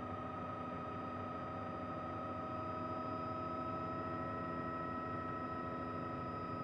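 Helicopter in steady flight: a constant turbine whine made of several held tones over an even rushing noise, with no change in pitch or level.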